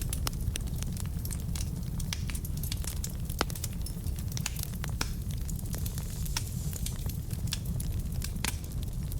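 Wood fire burning in a fireplace: a steady low rumble of flames with many irregular sharp crackles and pops from the logs, one louder pop a little over three seconds in.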